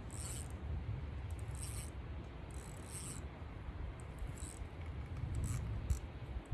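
Fishing reel being cranked in short spurts with pauses between them, the stop-and-go retrieve of a jerkbait.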